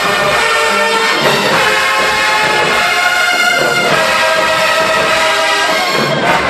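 A marching band's brass section playing loud held chords, moving to a new chord every second or two.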